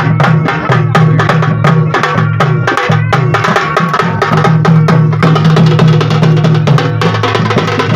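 Loud, fast drumming with sharp, rapid, evenly repeated strikes over a steady sustained musical tone.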